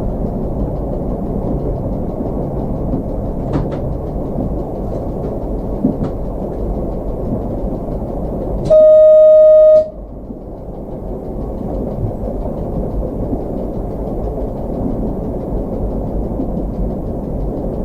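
Slovenian Railways series 813 diesel railcar running on the line with a steady low rumble from the cab, a couple of faint clicks from the track. About halfway through, the train's horn sounds once, a single steady note for about a second, louder than everything else.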